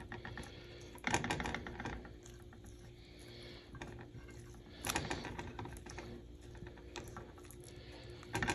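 Hot frying oil crackling and sizzling, a dense run of small pops, with louder knocks of handling about a second in and near five seconds.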